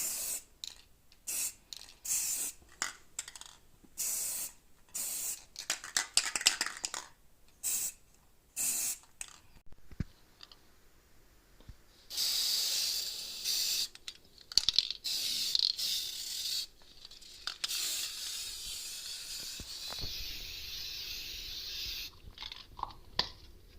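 Aerosol spray-paint can spraying: a run of short hisses in the first half, then longer steady sprays of a few seconds each in the second half, as paint is put onto artificial fireplace logs for an ember effect.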